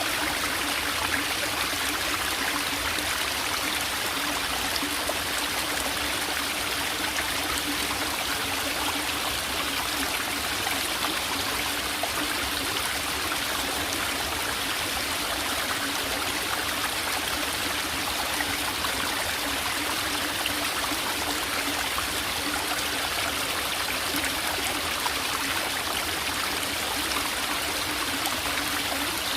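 Small forest valley stream trickling steadily, an even rush of flowing water.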